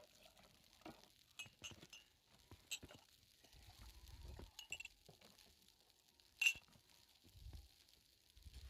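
Scattered light clinks and taps of small hard objects being handled, with one sharper clink about six and a half seconds in and a couple of low dull thumps.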